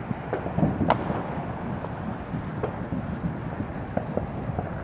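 Distant neighbourhood fireworks and firecrackers: a continuous rumble of far-off booms with scattered sharp pops, the loudest about a second in.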